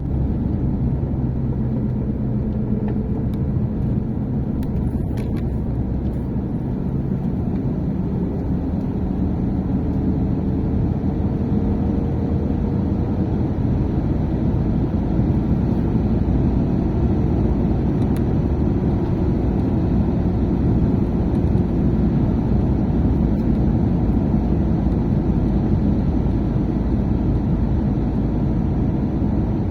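Motor vehicle driving at a steady pace: continuous engine and road noise with a low, even hum.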